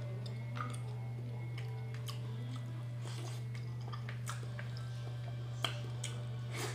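A person chewing food, with short irregular clicks from the mouth and hands, the sharpest about five and a half seconds in, over a steady low hum.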